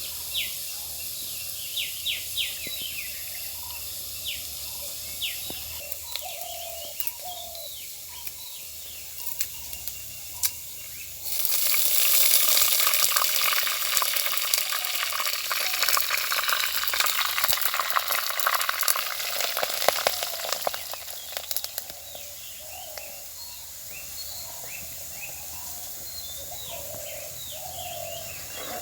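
Food sizzling and crackling in hot oil in a cooking pan. The sizzle starts abruptly about eleven seconds in and dies down about ten seconds later. Small birds chirp repeatedly throughout.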